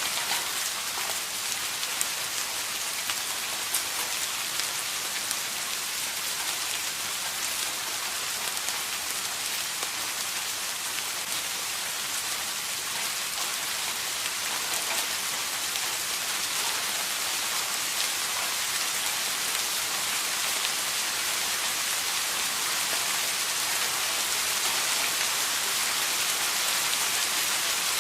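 Steady rain falling, a dense hiss of drops with fine individual drop ticks.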